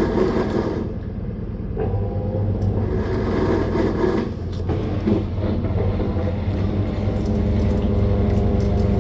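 Living & Co 5.5 kg top-loading washing machine running mid-cycle: a steady low motor hum with rumbling and water noise.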